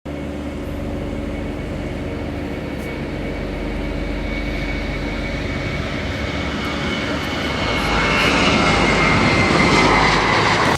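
Jet aircraft engines running with a steady high whine over a broad rush of noise, growing louder over the last few seconds.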